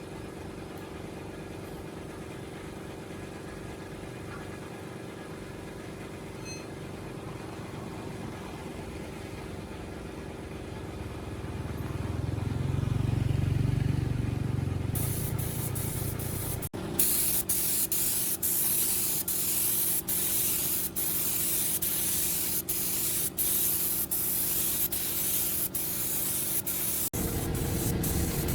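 A steady mechanical hum, which grows into a stronger low rumble about twelve seconds in. About fifteen seconds in, a loud spraying hiss starts and goes on, broken by many brief pauses.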